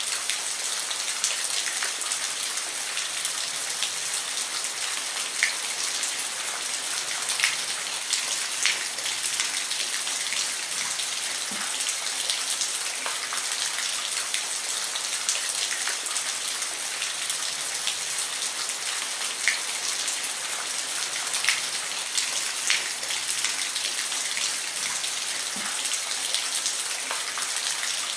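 Steady rain falling on a roof: an even hiss with individual drops ticking sharply every second or so.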